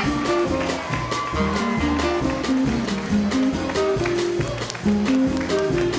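Live small jazz band playing an up-tempo swing number: a bass line moving note by note under steady drum hits, with guitar and held higher notes on top.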